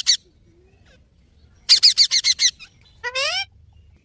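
Parrot calling: a quick run of about eight sharp, high chirps about two seconds in, then a short rising squawk a second later.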